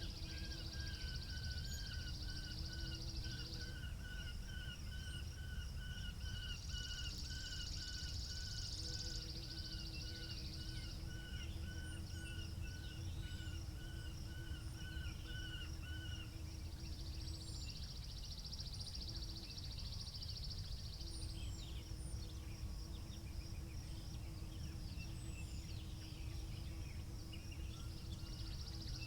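Wind rumbling on the microphone outdoors, with birds chirping. One bird repeats a short call about twice a second, stopping about halfway through, while a faint steady hum comes and goes underneath.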